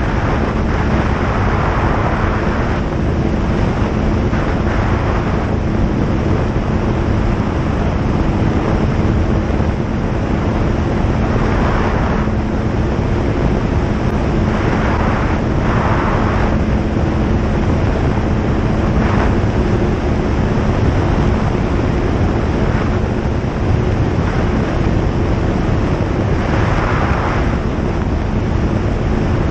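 Single-engine light aircraft's engine and propeller running steadily with a low, even drone, under a loud rushing noise that swells now and then.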